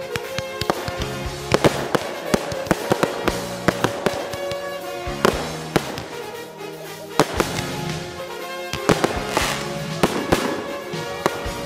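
Fireworks display: aerial shells and cakes going off in a rapid run of sharp bangs and crackles, with music playing underneath.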